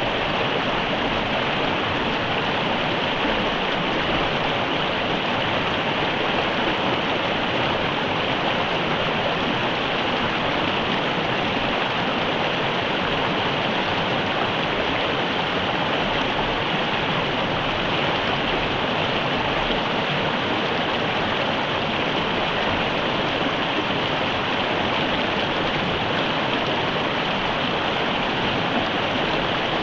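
Mountain river water running steadily over rocks, an even rushing sound.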